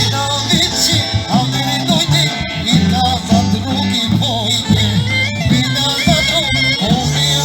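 Lively Balkan folk dance music: an ornamented, wavering melody over a low accompaniment that steps between notes in a steady rhythm.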